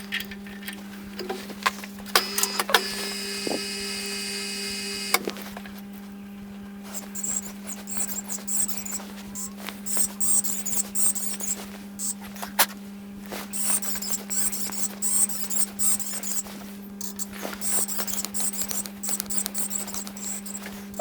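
Drill spindle motor running with a steady hum while a 2.5 mm drill bit cuts a hole for an M3 thread. A steady high squeal from the cut lasts about three seconds, starting about two seconds in, and is followed by scattered clicks and scraping.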